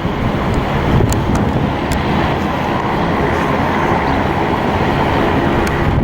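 Jet airliner engines, a loud, steady roar.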